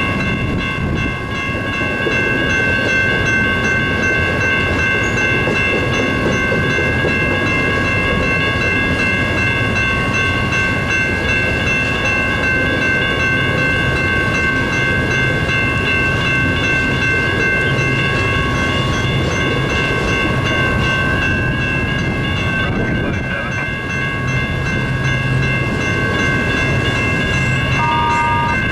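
A train rolling steadily past with rumbling wheels and clicking over rail joints, while steady ringing tones carry on throughout. Near the end there is a brief two-note tone.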